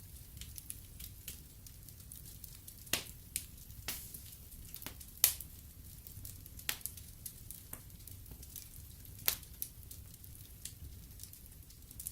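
Fire in a fireplace crackling, with irregular sharp pops over a low steady rumble. The loudest pops come about five seconds in and again about nine seconds in.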